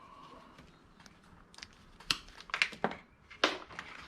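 Handling of small hard scrap items: a run of sharp clicks and clacks in the second half, after a quiet start.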